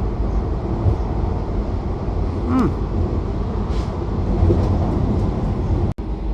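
Steady low rumble of a train running, with one short gliding squeal about two and a half seconds in. The sound drops out for an instant near the end.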